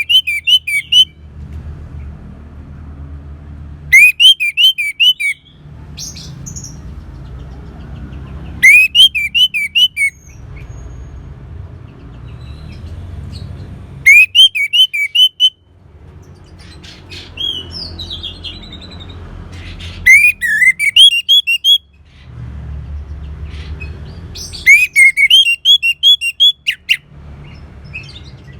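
Orange-headed thrush singing: six short phrases, one about every five seconds, each a quick run of sharp rising notes. A low steady hum fills the gaps between phrases.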